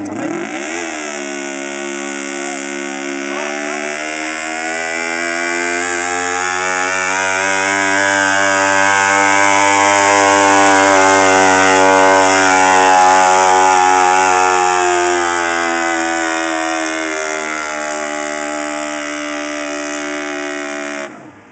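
Mini pulling tractor's engine run at full throttle through a pull. It revs up sharply in the first second, then holds high and steady, growing louder toward the middle and easing off before cutting out suddenly near the end.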